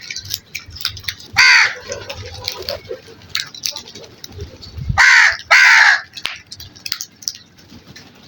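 Crows cawing: one harsh caw about a second and a half in, then two caws in quick succession about five seconds in, with small clicks scattered between the calls.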